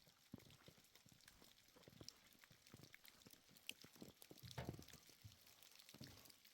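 Near silence, with faint, scattered small clicks and taps.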